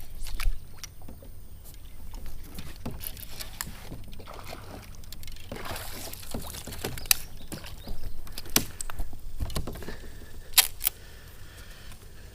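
Scattered knocks and sharp clicks on a kayak with bursts of water splashing, as a hooked bass is fought and brought aboard.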